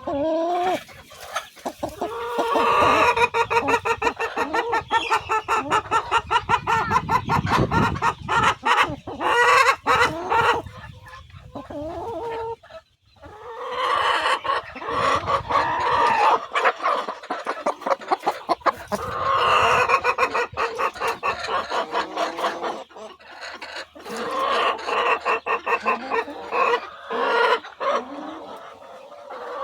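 Chickens clucking, loud and nearly continuous, in waves with brief lulls.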